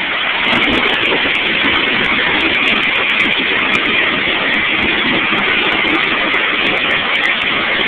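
Twin-turbo Buick Grand National engine running, a loud steady noise that holds level without rising or falling, heard through a cell phone's microphone.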